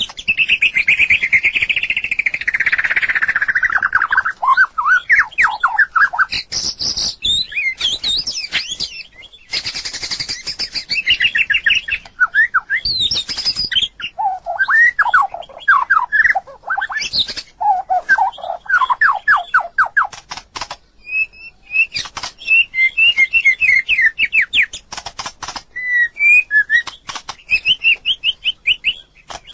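White-rumped shama singing a varied, loud song: phrases of fast, repeated sweeping whistles and trills, each lasting a few seconds, changing pitch and pattern from one phrase to the next, with short pauses between.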